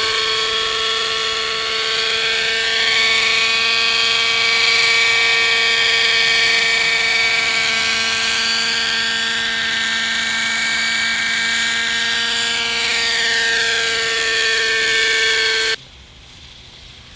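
Hirobo Sceadu model helicopter's .50-size two-stroke nitro engine and rotor blades running steadily in flight, a loud steady whine. The revs are lower than they should be because the fuel mixture is off. The sound cuts off abruptly near the end.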